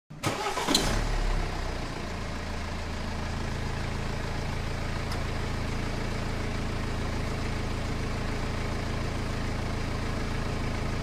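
Tractor engine sound running steadily at an even idle-like pitch, with a short sharp burst a little under a second in.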